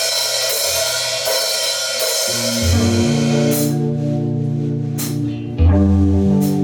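A metal band playing live: ringing cymbals at first, then held guitar and bass notes come in about two and a half seconds in, with cymbal crashes, and a louder low chord near the end.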